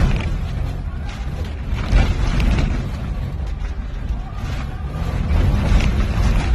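The 1989 Geo Tracker's four-cylinder engine runs hard around the tough truck course, with knocks and rattles as it works over the obstacles. It gets louder about five seconds in.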